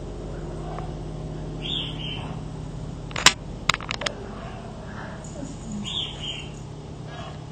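Birds calling twice, each a short two-part high call, with a quick run of sharp clicks in between over a steady low hum.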